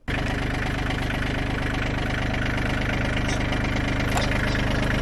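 Bobcat CT122 compact tractor's diesel engine idling steadily, with a couple of faint clicks partway through.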